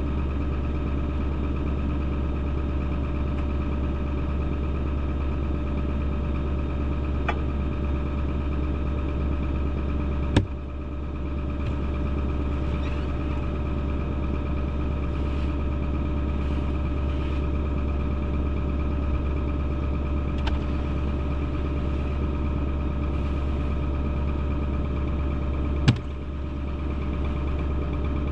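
Chevy K3500 Duramax turbo-diesel V8 idling steadily. Two sharp knocks sound over it, one about ten seconds in and one near the end.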